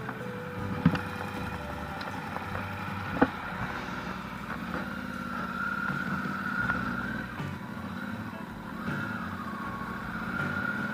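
Yamaha TDM 850 parallel-twin engine running steadily, with its timing chain freshly replaced; two sharp clicks about one and three seconds in.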